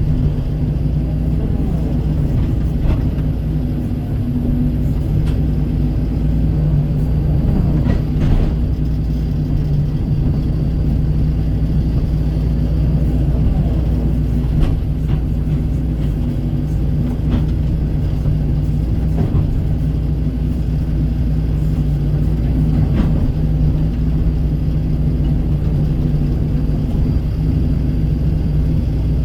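Kobelco hydraulic excavator's diesel engine running steadily under working load, with a few scattered knocks, the clearest about 8 seconds in.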